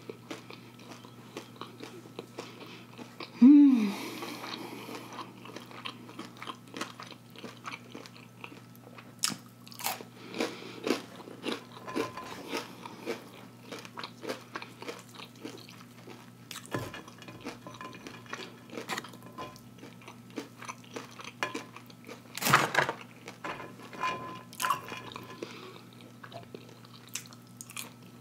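Close-miked chewing and crunching of crispy fried catfish, with irregular crisp crunches and mouth clicks throughout and one louder crunch about twenty-two seconds in. A brief loud hum-like sound comes about three and a half seconds in.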